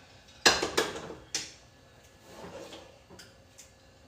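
Kitchen clatter: hard objects knocking, three sharp knocks close together in the first second and a half, then a few faint small clicks.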